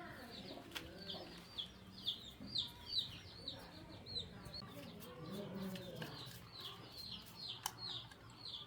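Birds chirping steadily, with short high downward-sliding calls about three a second. Lower calls come in about five seconds in, and there are a few sharp clicks.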